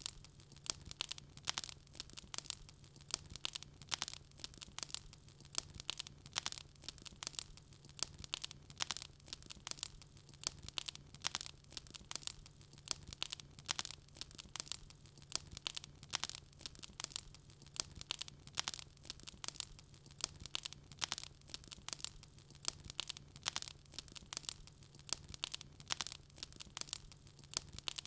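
Wood fire crackling in a fireplace: a dense, irregular stream of small pops and snaps, over a faint steady low hum.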